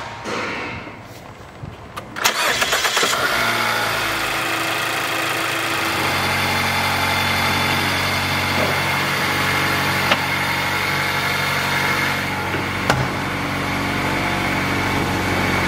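Mazda Axela 2.0 SkyActiv-G four-cylinder engine with a freshly fitted VT twin-screw supercharger, cranking on the starter for about a second, catching, and running at a raised idle that drops a few seconds later to a steady lower idle. A single sharp click near the end.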